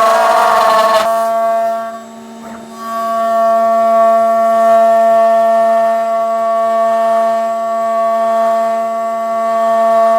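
Home-made CNC router running and cutting, with a steady high machine whine. It is noisier for about the first second and dips briefly at about two seconds.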